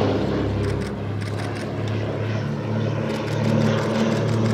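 Piston engines of a vintage twin-engined propeller aircraft running in a display fly-past, a steady low drone whose pitch shifts slightly partway through.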